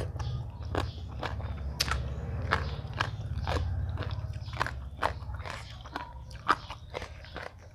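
Close-up crunchy chewing of food, with crisp crunches about two to three times a second, over a low hum that fades out about five seconds in.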